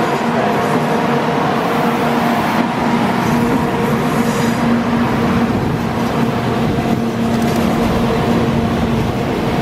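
A 700 series Shinkansen train passing over a level crossing: a steady running rumble with a steady hum in it.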